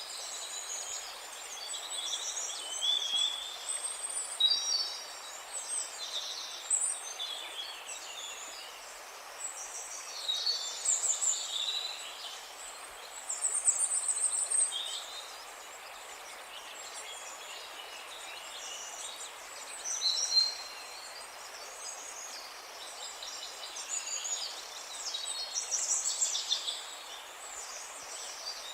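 Several songbirds chirping and trilling in quick, overlapping phrases over a steady soft hiss. The calls come and go in busier spells throughout.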